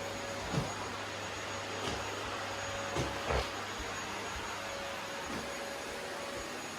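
Household vacuum cleaner running steadily, a whooshing hum with a thin high whine over it. A few dull knocks sound over it, the clearest about half a second in and around three seconds in.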